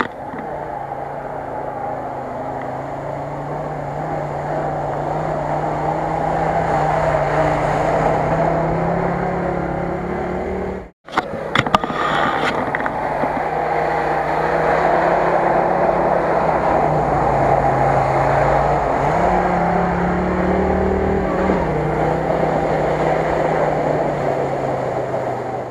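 Off-road 4x4 engine running steadily, its note drifting a little up and down, over a steady rushing noise. The sound cuts out for a moment about eleven seconds in, then carries on the same.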